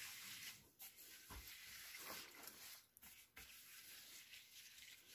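Faint stirring of a soy-sauce marinade in a bowl: soft scraping and rubbing with a couple of light knocks, as the sugar is stirred until it dissolves.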